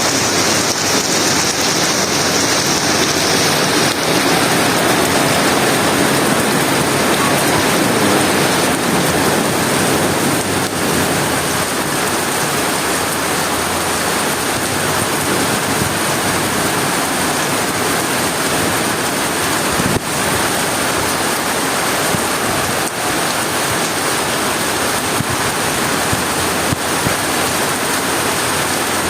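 Rain falling steadily, driven by strong wind: an even, unbroken hiss.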